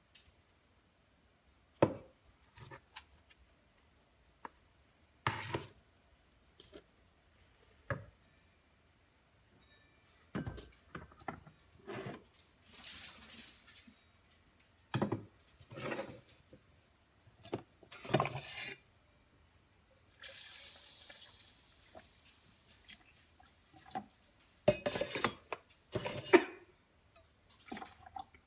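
Dishes, cups and cutlery clinking and clattering on and off, handled one after another. Two short spells of running water come in, about halfway through and again a few seconds later.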